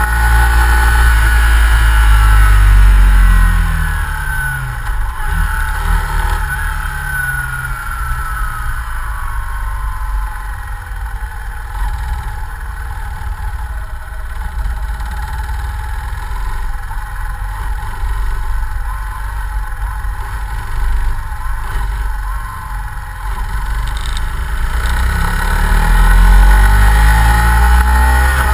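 Yamaha Fazer 150 Blueflex's single-cylinder engine through its stock exhaust. It is loud at first, falls in pitch and fades about four seconds in, runs quieter through the middle, and grows loud again near the end.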